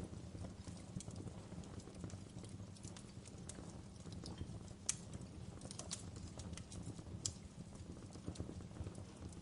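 Wood fire crackling: a steady low rumble with scattered sharp pops and snaps, the loudest about five seconds in and again a little after seven seconds.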